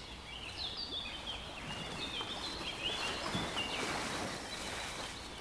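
Small birds chirping in short, repeated high notes that slide and step in pitch, over a steady outdoor background hiss.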